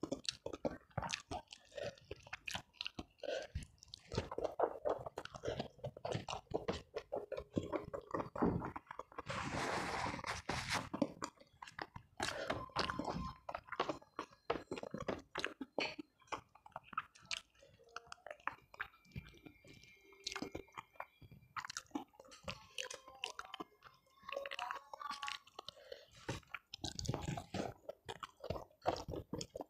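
Close-miked chewing and crunching of a hand-eaten meal of rice and fried catfish, with many small irregular mouth clicks and a denser burst of crunching about ten seconds in.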